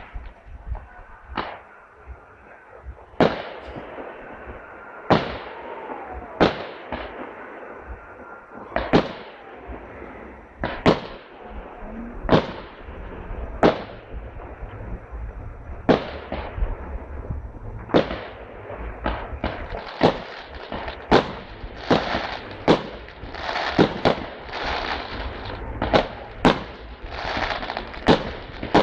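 Fireworks display: shells bursting in sharp bangs, one every second or two at first and coming faster from about two-thirds in, with crackling filling the gaps near the end.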